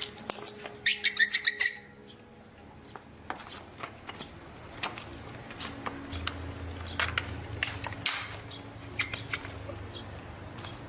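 Scattered sharp clicks and light metallic knocks of hand tools on a motorcycle wheel being worked on, with a low steady hum setting in about six seconds in.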